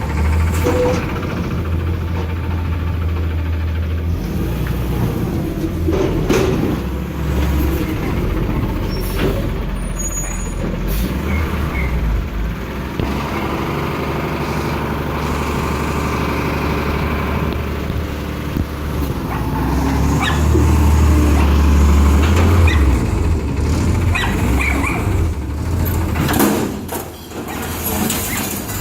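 Garbage truck's engine running with a steady low drone, with several knocks and air-brake releases over it.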